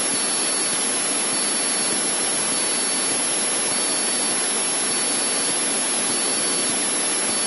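Steady, even hiss of a Cessna 152 cockpit in a cruise descent, heard through the aircraft intercom, with a few faint steady high tones over it.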